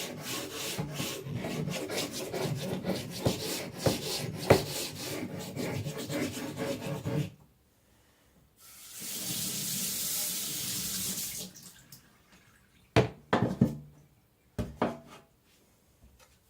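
Quick scraping strokes on a wet Naniwa Aotoshi whetstone for about seven seconds, then a short pause and a tap running for about three seconds as the stone is rinsed, followed by a few sharp knocks.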